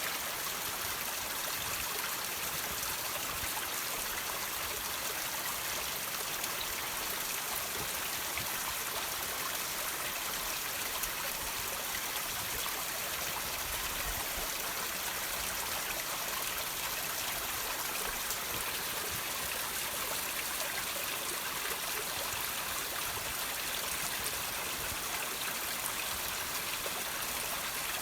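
Water trickling and dripping over rocks: a steady, even splashing hiss of running water with no pauses.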